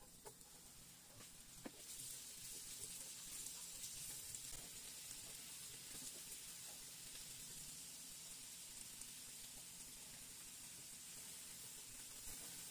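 Minced garlic frying in melted butter in a nonstick frying pan: a faint, steady sizzle that grows louder about two seconds in, once the garlic is in the pan.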